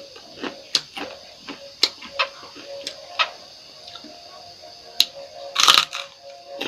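Close-miked eating sounds: irregular crunches and wet clicks of a person chewing food, several a second, with a louder crunchy burst near the end and a faint steady hum underneath.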